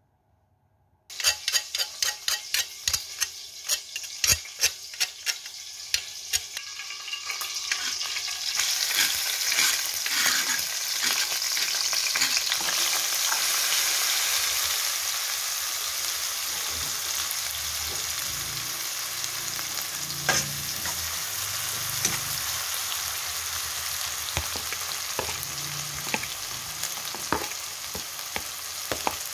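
Chopped shallots, chilies and garlic frying in hot oil in a wok while being stirred with a spatula. It starts suddenly about a second in with quick sharp taps of the spatula on the pan, about three a second. After several seconds a steady sizzle swells and holds, with occasional scrapes and taps.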